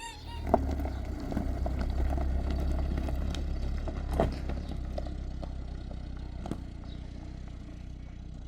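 Car engine running with a steady low rumble, with a few sharp knocks and clatters, the loudest about half a second in and another about four seconds in.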